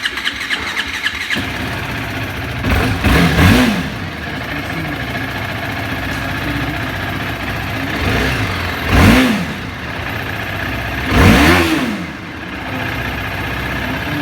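TVS Apache RR310's single-cylinder engine just fired up and idling through the stock exhaust, blipped on the throttle three times, each rev rising and falling back to idle within about a second.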